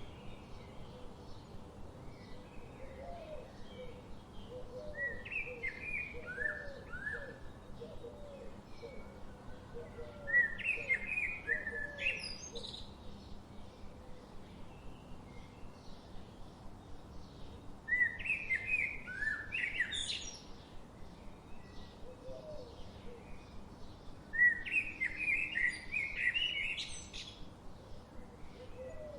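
Songbird singing in a forest: a short warbled phrase repeated four times, each ending in a high rising flourish, with fainter low short notes repeating about twice a second through the first half, over a steady background hiss.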